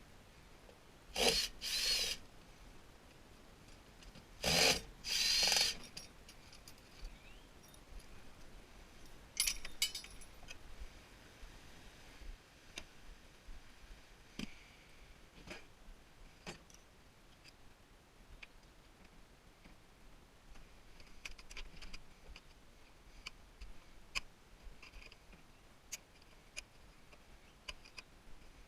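Power drill or driver run in two pairs of short trigger bursts in the first six seconds, then scattered light clicks and taps of parts being handled for the rest.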